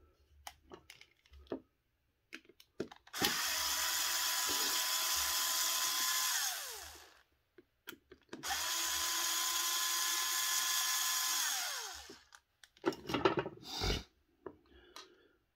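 A handheld cordless power driver runs twice, each time for about three and a half seconds, backing bolts out of a small RC transmission case. Each run holds a steady whine that falls in pitch as the motor winds down. Small clicks and knocks of parts being handled come between the runs, with a louder clatter near the end.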